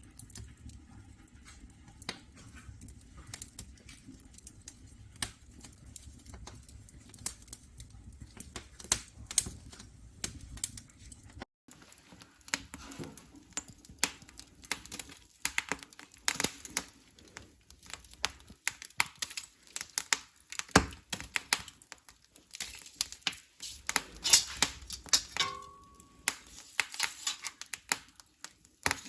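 Wood fire crackling, with irregular sharp pops and snaps from burning logs.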